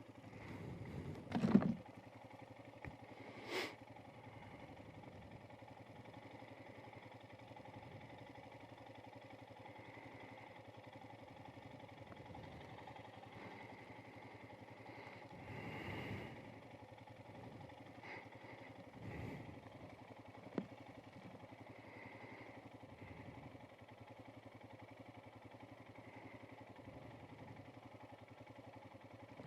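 Faint, steady motorcycle engine sound, with a few brief knocks and a louder swell lasting a second or two about halfway through.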